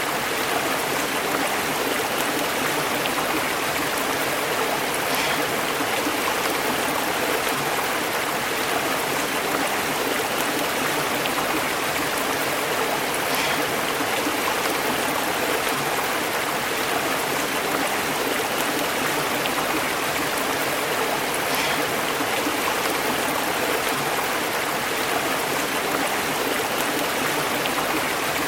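Stream water flowing and bubbling over rocks, a steady even rush.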